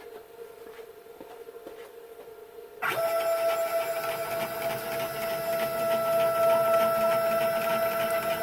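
CNC router's stepper motors driving the axis in a steady whine, starting suddenly about three seconds in after a faint hum; the long move is a check of full travel after the cable chain was shortened.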